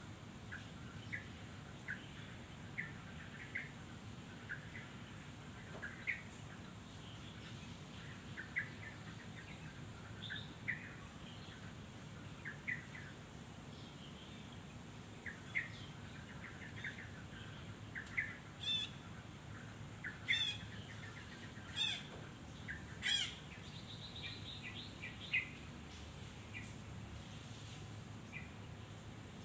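Birds chirping in short, scattered chirps. Past the middle, a few louder, longer trilling calls join in.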